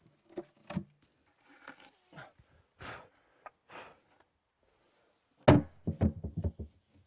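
Scattered light knocks and thuds, then a quick run of heavier thumps about five and a half seconds in.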